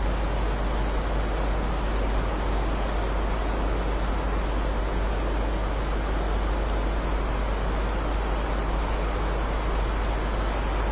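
Steady heavy rain: an even, unbroken hiss with a strong low rumble underneath, with no single drops or thunder standing out.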